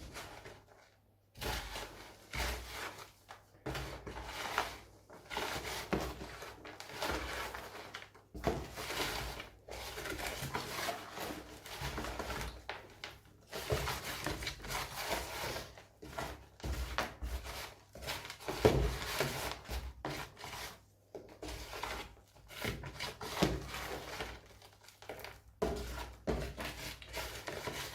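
A potting mix of soil, sand, peat, bark and perlite being stirred and turned over, an irregular rustling and scraping with brief pauses.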